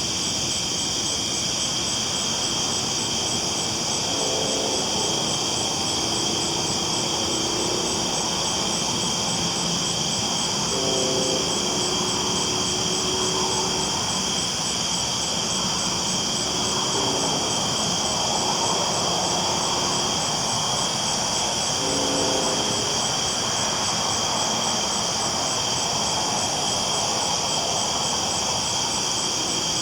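Train rolling along the tracks, a steady rumble under a high continuous hiss, with four brief low pitched tones rising out of it along the way.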